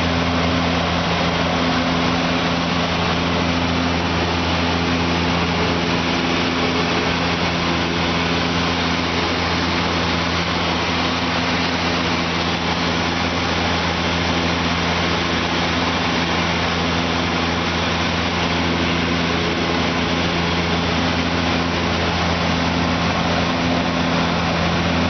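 Small turboprop passenger plane's engines and propellers running, a steady drone with a constant low hum under an even rushing hiss.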